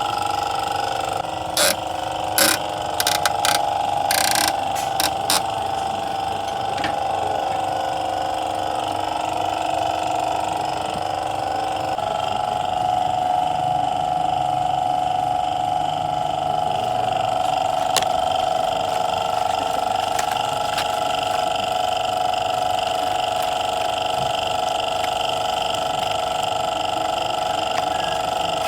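A steady machine hum with a few fixed tones, and a handful of sharp clicks in the first five seconds or so.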